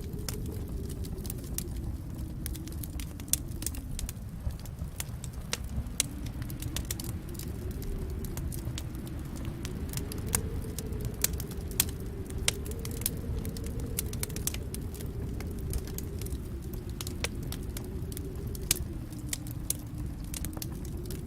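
Wood fire in a fireplace crackling, with a steady low rumble of the flames under irregular sharp pops and snaps, a few louder than the rest.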